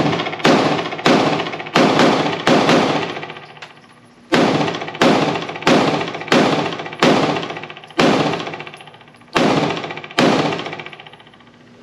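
PSA Dagger 9mm compact pistol fired rapidly, about fourteen shots roughly half a second apart in two strings with a short pause about four seconds in, each shot echoing in an indoor range. Fired fast to test whether the trigger reset can be outrun into a jam.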